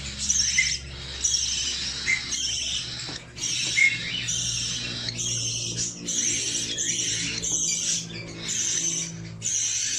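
Young budgie calling in raspy, rapid chirps, one short bout after another with brief breaks between them.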